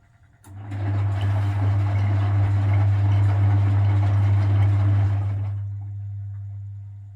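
Vintage Frigidaire Super Deluxe Automatic 50 front-loading washing machine running: its induction motor starts about half a second in with a loud steady hum and a rushing noise over it, easing off in the last couple of seconds.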